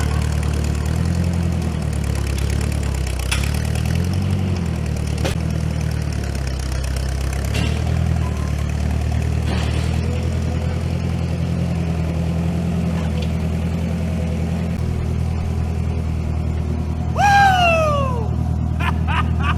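Loader engine running under work, its pitch rising and falling as it is worked, with a few knocks. Near the end a loud high sound slides down in pitch for about a second.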